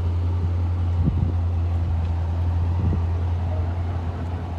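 2015 SRT's 6.4-litre HEMI V8 idling steadily with a deep, even hum.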